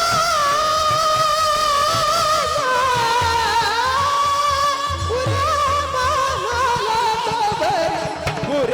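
A kirtan singer holding one long, high sustained note with a slight waver, sliding slowly lower toward the end. Low drum beats come in about halfway through.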